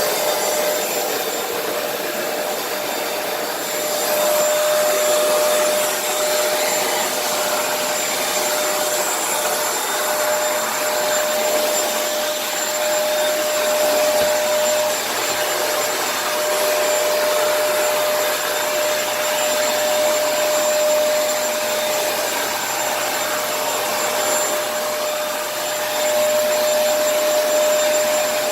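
Kenmore vacuum cleaner running, a steady rush of air with a constant whine, its loudness rising and dipping a little as it is pushed back and forth.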